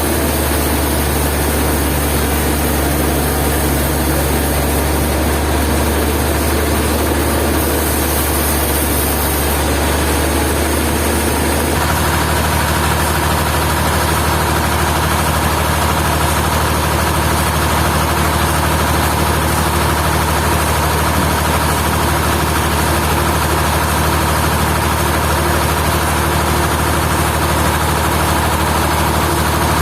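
Sawmill machinery running steadily with a low engine-like drone; the mix of the noise shifts abruptly about twelve seconds in.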